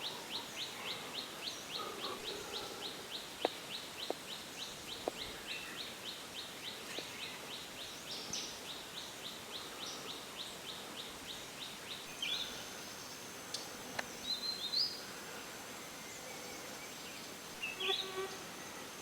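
Birds calling outdoors. One repeats a short high note evenly and rapidly, a few times a second, for about twelve seconds, then it stops. Scattered chirps and a thin whistle follow, with another call near the end.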